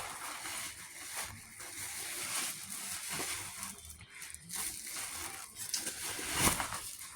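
Grocery bags and produce being handled and unpacked, with uneven rustling and a sharper knock about six and a half seconds in.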